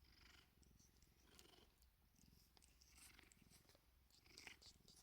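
A domestic cat purring steadily and quietly close up, with a few soft rustles over it.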